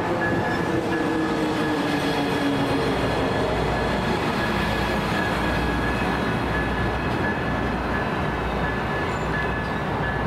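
Passenger train powered by a Siemens SC-44 Charger diesel locomotive passing close by: a steady loud rush of wheels on rail with a thin high whine held over it. Engine tones slide down in pitch over the first few seconds, and a deep rumble comes in about three seconds in.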